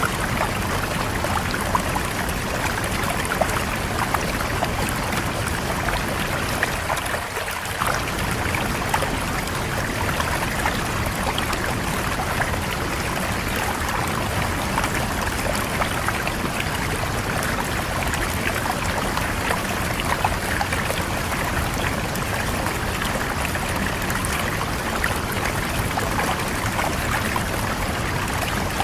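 River water flowing and splashing, a steady rushing with fine splashes and gurgles.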